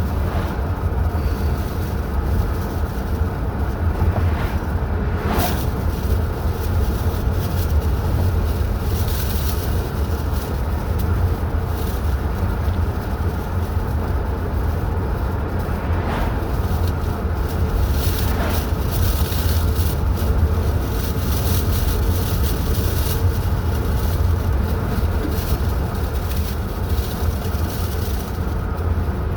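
A car driving along the road: a steady low rumble of engine and tyre noise, with a few faint whines that rise and fall in pitch.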